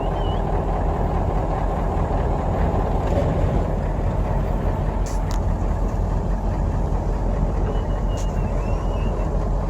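Steady heavy rumble of sandstorm wind and vehicle noise, with a couple of faint clicks midway and near the end.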